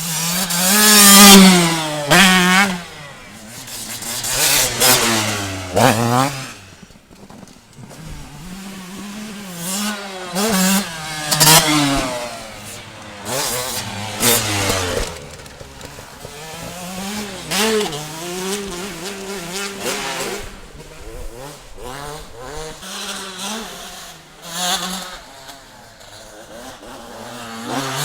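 Motocross bikes revving hard and riding past, engine pitch climbing and dropping with throttle and gear changes. Several loud close passes, the biggest about a second in.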